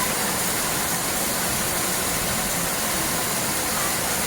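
Steady rushing noise with no clear pitch.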